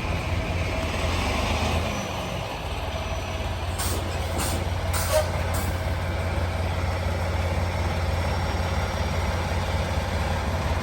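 Semi truck's diesel engine running steadily, with four short hisses of air about four to five and a half seconds in.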